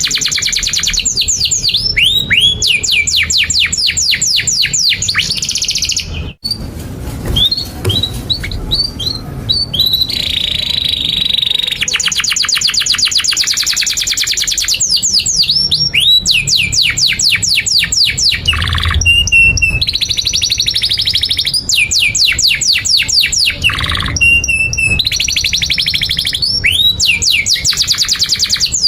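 Domestic canary singing a long, continuous song: fast trills of rapidly repeated high notes alternating with upward-sweeping chirps, with a momentary break about six seconds in.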